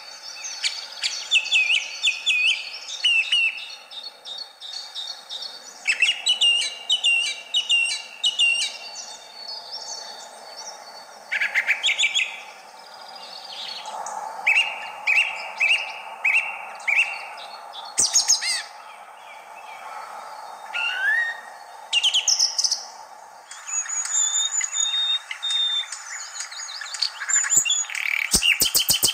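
Birds chirping and singing in short whistled notes and trills, including a run of five even notes about halfway through, over a steady background hum. A few sharp clicks come near the end.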